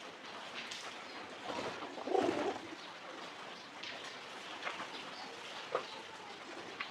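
A pigeon cooing once, about two seconds in, over a steady hiss, with a few faint short clicks later on.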